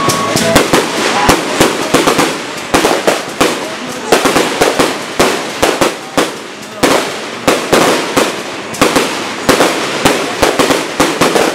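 Aerial fireworks going off in quick succession: sharp bangs several times a second from bursting shells and rising comets, over a steady crackle and hiss, easing briefly about halfway through before picking up again.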